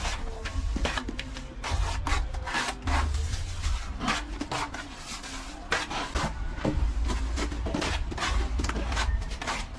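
Plaster being worked with a trowel: repeated irregular scraping strokes of the blade over the plaster, with a low rumble underneath.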